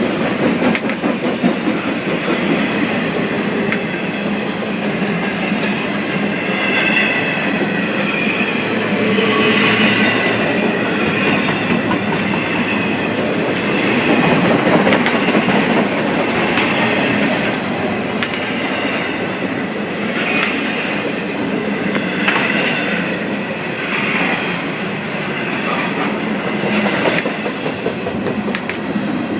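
Freight train rolling past steadily, its car wheels clattering over the rail joints. High thin wheel squeals come in a few times.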